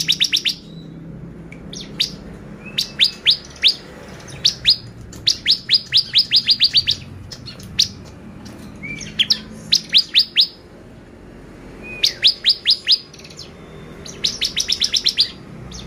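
Bar-winged prinia (ciblek) singing: repeated bursts of four to eight rapid, high, downward-sweeping notes, a few of the bursts opening with a short upslurred note.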